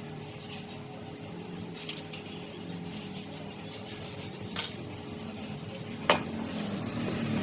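Metal items clinking and tapping against each other: a few sharp clinks, the loudest past the middle, over a low steady hum.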